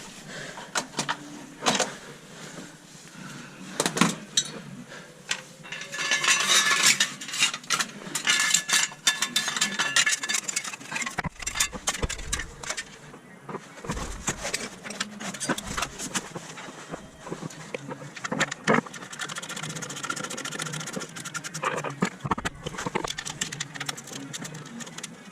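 Hand tools and metal parts clinking and knocking in irregular clatter while work goes on on the BMW E36's engine bay, with a denser stretch of rattling a few seconds in and a few dull low thuds around the middle.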